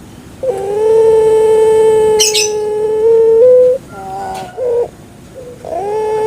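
Puter pelung (Barbary dove) cooing: one long, drawn-out steady coo of about three seconds that steps up slightly in pitch at its end, then a short broken coo, and another long coo starting near the end. A brief high hiss sounds about two seconds in.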